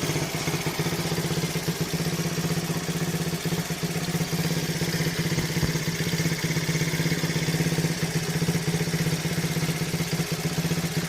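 1972 Honda Dax ST70's 72cc single-cylinder four-stroke engine ticking over steadily, purring, with no nasty noises: it is running healthily.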